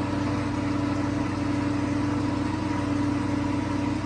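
A car engine idling steadily, an even low running note with a fast regular pulse.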